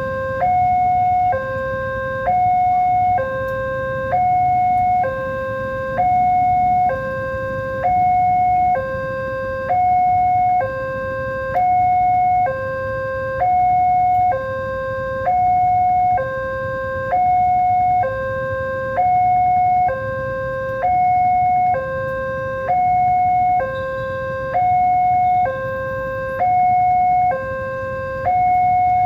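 Railway level-crossing warning alarm sounding a steady two-tone hi-lo signal, switching between a lower and a higher tone about once a second without pause: the crossing is closing or closed for an approaching train. A low steady rumble runs underneath.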